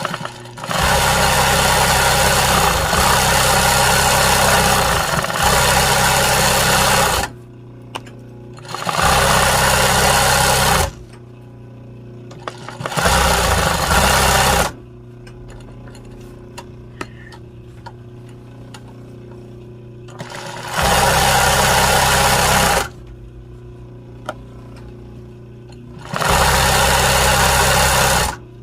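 Sewing machine stitching embroidery, running in five spells of a few seconds each, the first the longest, with short pauses and a few light clicks between them.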